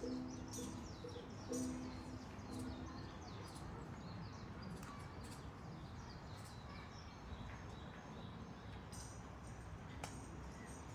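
Small birds chirping in short repeated calls over a steady outdoor background hiss, with the chirps thickest at the start and again near the end. A few low held tones sound in the first three seconds.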